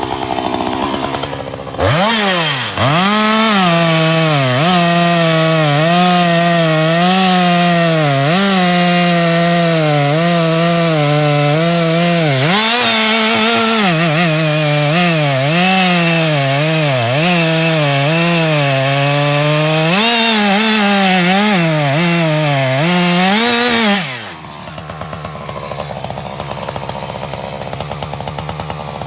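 Two-stroke chainsaw throttled up about two seconds in and held at full revs cutting into wood for some twenty seconds, its pitch dipping again and again as the chain bogs down in the cut, then easing off to a lower, quieter running near the end.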